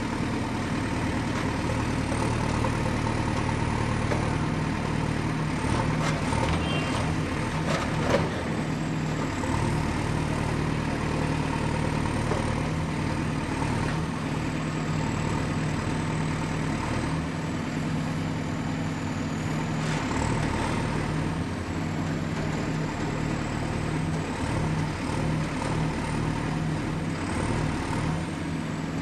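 Excavator's diesel engine running steadily, with a high whine that wavers in pitch. A few knocks about six to eight seconds in, the loudest a single clank near eight seconds.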